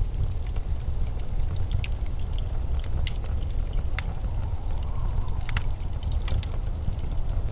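Blizzard wind blowing as a steady low rumble, with scattered sharp clicks throughout.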